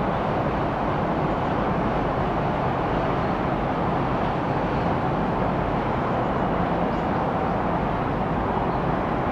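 Jet noise from a Boeing 747-8's four GEnx engines, a steady, even rumble that holds at one level throughout.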